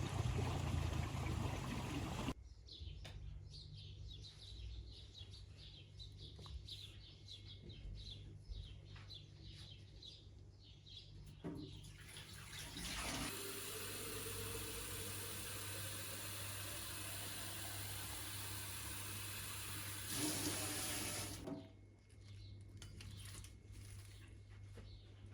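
Water running from a tap into a container for about eight seconds in the middle, its pitch rising as the container fills. Small birds chirp before and after it, and the clip opens with a couple of seconds of loud rushing noise.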